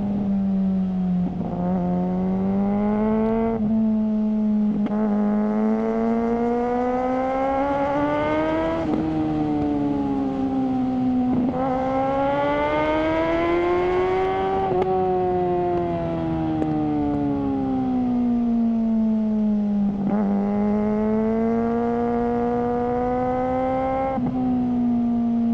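Suzuki GSR600's inline-four engine through a GPR Ghost aftermarket exhaust, pulling up through the revs under acceleration. The pitch drops sharply at each gear change, and near the middle it winds down more slowly as the throttle eases off.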